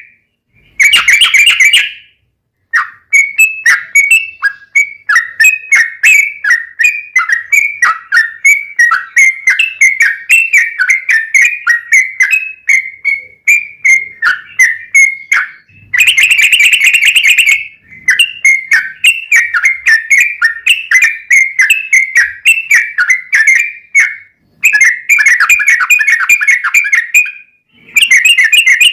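Yellow-vented bulbul (trucukan) singing a long, rapid chattering song of quick bubbling notes, broken by a few short pauses.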